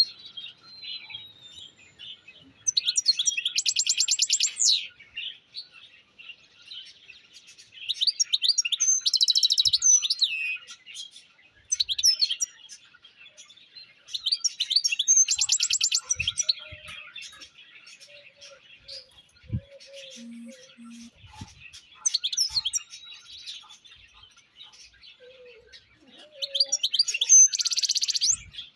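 European goldfinch singing: loud bursts of fast twittering song with rapid rattling trills, about every five to seven seconds, with softer twittering between them.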